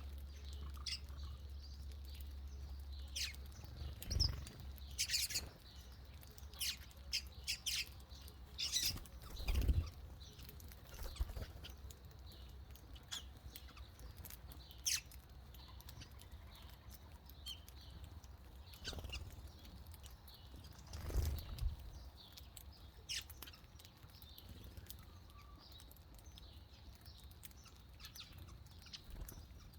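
Small birds chirping in short, scattered calls, with a few soft thumps about four, ten and twenty-one seconds in and a low rumble in the first few seconds.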